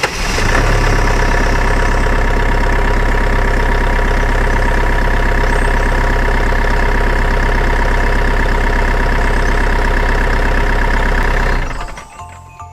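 An engine running steadily at a constant speed, starting abruptly and cutting off about a second before the end.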